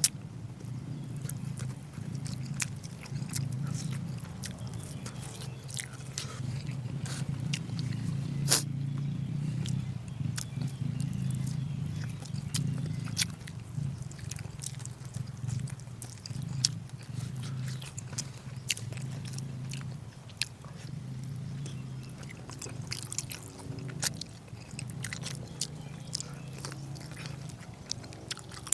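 Close-up mukbang eating sounds: a person chewing and biting into braised pork, with frequent wet mouth clicks and smacks over a steady low hum.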